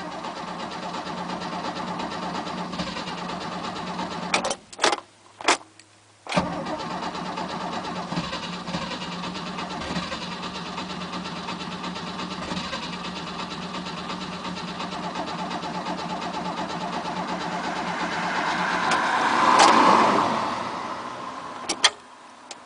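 Starter cranking a 1967 Mercedes engine that does not catch. First a crank of about four seconds, then a short pause with a few clicks, then a long crank of about fifteen seconds that swells louder near the end before stopping. The engine is hard-starting, which the owner puts down to flooding or oil-fouled spark plugs.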